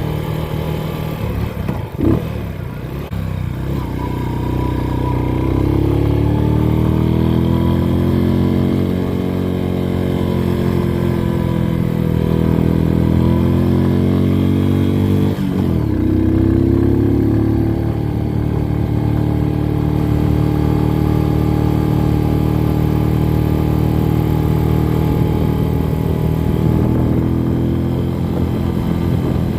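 Motorcycle engine under way and accelerating, its pitch rising and falling through the gears, with a sharp clunk about two seconds in and a short break at a gear change about fifteen seconds in.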